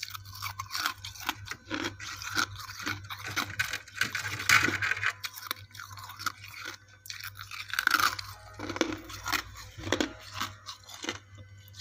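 Someone biting and chewing chunks of freezer frost: a dense, irregular run of crisp crunches and squeaky snaps, close to the mouth.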